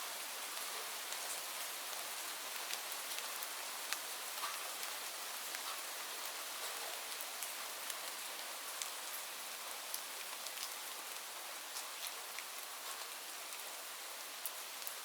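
Steady rain falling, a dense hiss with scattered sharp drip and drop ticks landing close by.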